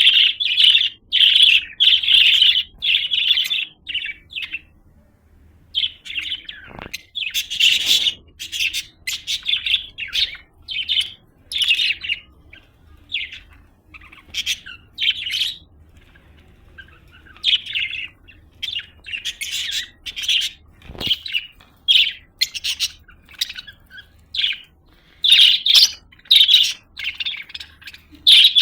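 A budgerigar chirping and warbling in quick bursts of short chirps, with brief pauses between runs.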